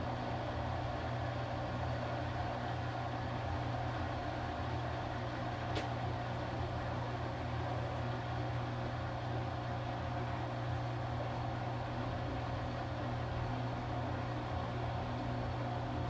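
Washing machine running steadily with an even motor hum, with one faint tick about six seconds in.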